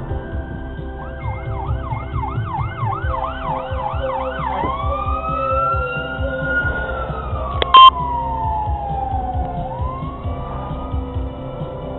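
Fire engine siren on an emergency call: a fast yelp of rapid rising sweeps, switching to a slow rising and falling wail. A brief, very loud blast cuts in about two-thirds of the way through, over low road rumble.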